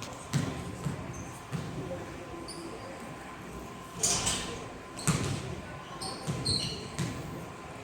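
A basketball bouncing on a gym floor during play: about six dull thuds at uneven intervals, with a few short high sneaker squeaks.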